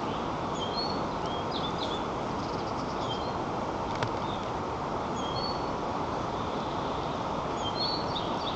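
Small birds chirping and whistling in short scattered calls over a steady background rush of forest ambience, with one sharp click about four seconds in.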